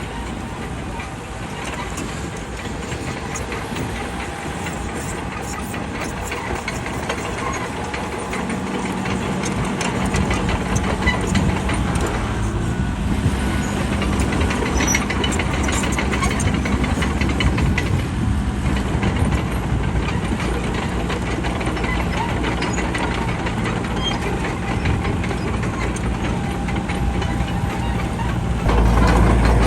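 Bulldozer's diesel engine running steadily. It grows louder about a third of the way in and again near the end.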